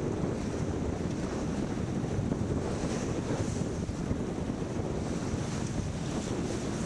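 Steady wind buffeting the microphone, over water washing against a sailboat under way.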